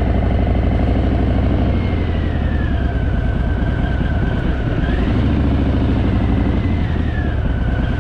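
Harley-Davidson motorcycle engine running as the bike is ridden, its note easing off about two seconds in and picking up again about five seconds in. A thin whistling tone drifts up and down above the engine.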